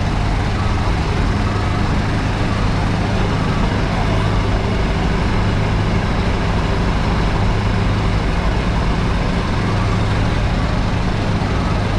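Truck engines running steadily, with a constant low hum under a wash of outdoor traffic noise.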